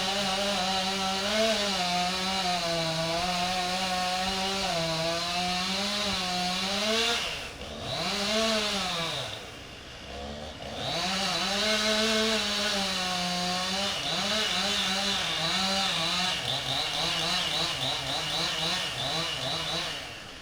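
Chainsaw cutting into a large maple limb, its engine pitch wavering up and down under load. About eight seconds in it drops back toward idle twice, then revs up again and keeps cutting.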